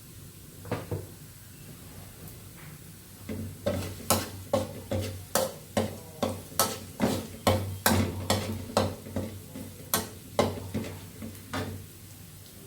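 A kitchen utensil knocking sharply and repeatedly in a cooking pot, pan or on a board, about two to three knocks a second for around eight seconds, after two single knocks about a second in.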